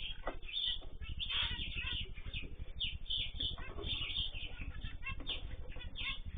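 A mixed flock of cage birds, such as cockatiels, zebra finches, canaries and goldfinches, chirping and calling all at once in many short, overlapping calls.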